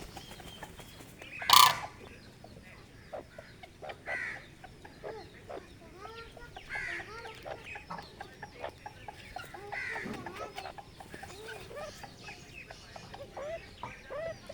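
Grey francolin clucking softly, a run of short low notes with a louder arching call every few seconds. A loud sudden burst of noise about one and a half seconds in.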